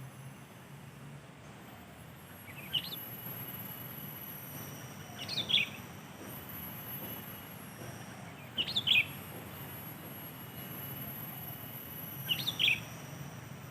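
Sooty-headed bulbul calling: four short bursts of a few quick notes, about every three seconds.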